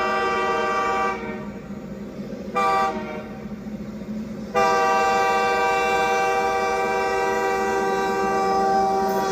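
Locomotive horn sounding a chord in three blasts: a long one ending about a second in, a short toot near three seconds, then a long steady blast from about four and a half seconds on, over the train's steady rumble.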